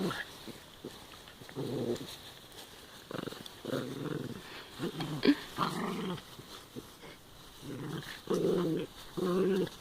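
Dogs growling in play, a string of short growls with pauses between them.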